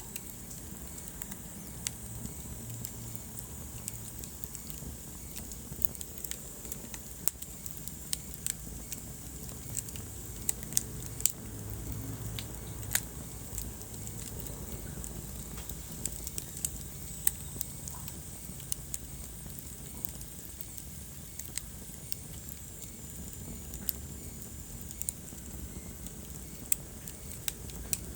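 Wood fire in a fireplace crackling, with sharp irregular pops, some much louder than others, over a low steady rumble of the flames.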